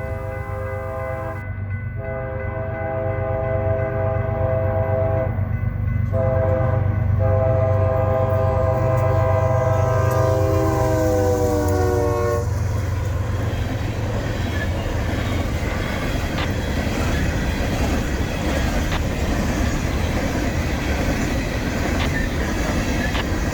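A BNSF freight train's diesel locomotive blows its multi-chime air horn in the grade-crossing pattern: two long blasts, a short one and a long one. The horn's pitch drops as the locomotive passes, and the engine rumble fades with it. The freight cars then roll by with a steady rumble and rhythmic wheel clicks over the rail joints.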